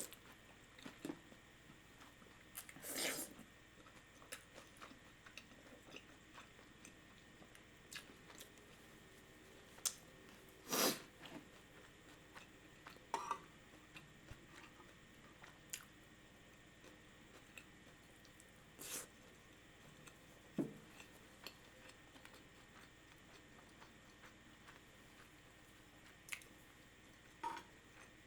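Close-miked chewing and mouth sounds of a person eating ramen: mostly quiet, with scattered small clicks and a few louder short bursts, the biggest about three and eleven seconds in.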